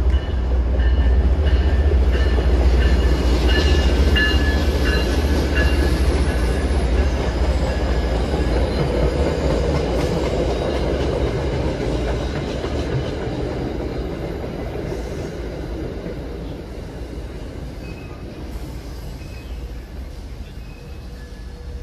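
MBTA commuter rail train passing at speed, a steady rumble of wheels on rail with thin high wheel squeals in the first few seconds. It fades steadily as the rear of the train goes by.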